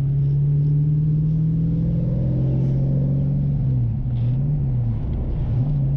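Freshly rebuilt Fox-body Mustang's 5.0 V8 running on a drive, holding a steady note that dips briefly twice, about four and five seconds in, as the revs drop and pick up again.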